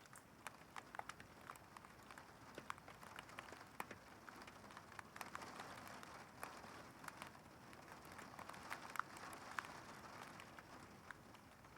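Faint rain of a severe thunderstorm: a patter of many irregular sharp drop ticks over a hiss of rain, which grows louder through the middle and eases near the end.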